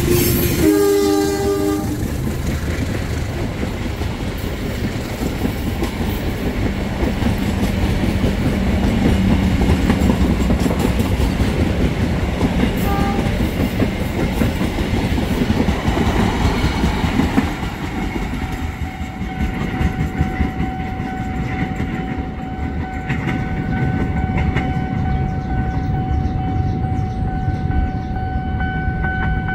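CC 201 diesel-electric locomotive (GE U18C) sounds a short horn blast about a second in as it passes, followed by its passenger coaches rumbling and clattering over the rail joints as the train runs by. About two-thirds of the way through the train noise drops, and a steady high tone comes in.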